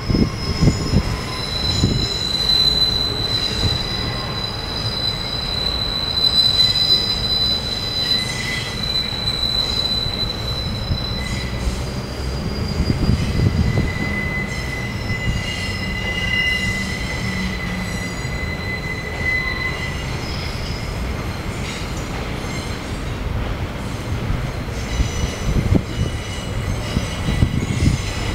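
Freight train of double-deck car-carrier wagons rolling past, its steel wheels squealing over a steady low rumble. There is one long high-pitched squeal through the first half, then a lower-pitched squeal through the middle.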